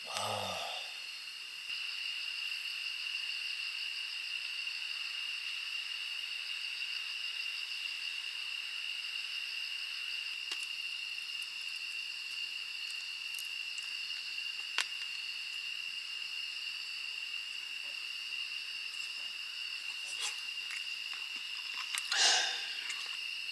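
Steady high-pitched outdoor ambience with hiss and a constant high, level tone. It is broken by a few light clicks and a brief louder swishing sound near the end.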